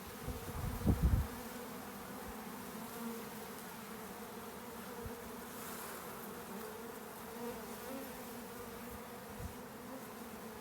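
A mass of honeybees buzzing in a steady hum. A few low thumps come about a second in.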